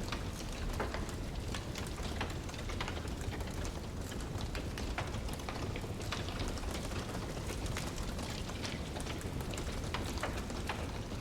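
Wood burning in a fireplace: a steady low bed of flame noise with frequent, irregular sharp crackles and pops.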